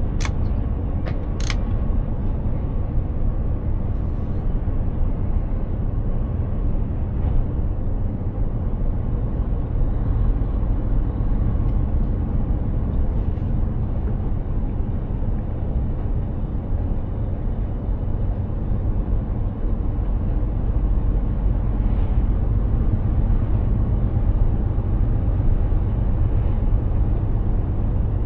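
Mercedes-Benz Actros 2763 truck driving at a steady pace: a constant low engine and road rumble. A couple of short sharp clicks sound about a second and a half in.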